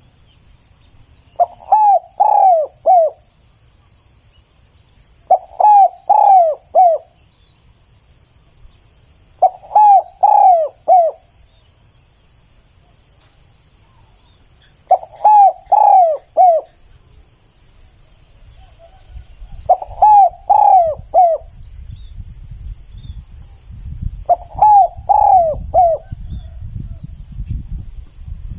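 Spotted dove cooing: six short phrases of three or four arched coos each, about every four to five seconds. Insects trill steadily in the background, and a low rumble rises over the last several seconds.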